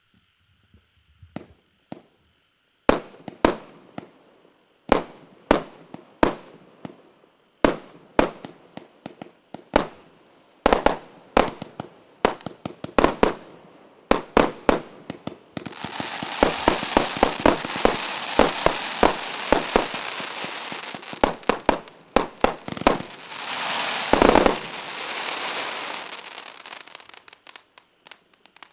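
Consumer multi-shot fireworks battery (cake) firing. Single shots bang about a second apart, then about halfway through the sound turns into continuous crackling and hissing with rapid bangs. A big heavy burst comes a few seconds before it dies away.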